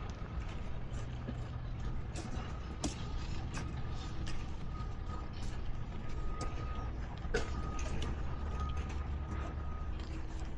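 Scattered creaks and sharp clicks aboard a wooden sailing ship, over a steady low rumble, with a faint high hum that comes and goes.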